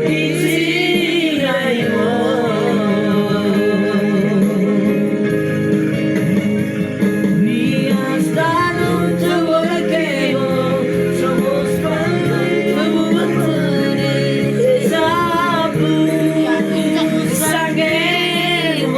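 A child singing a melody with vibrato over a musical backing accompaniment.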